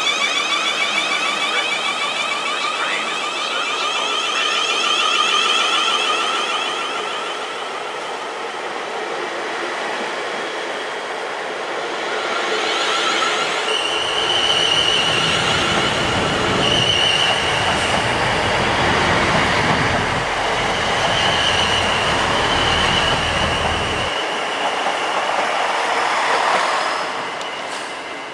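Electric multiple unit pulling out of the platform: a high, whining motor sound at first, then the rumble of wheels on the rails with a steady high squeal as the carriages pass. The sound fades near the end as the train leaves.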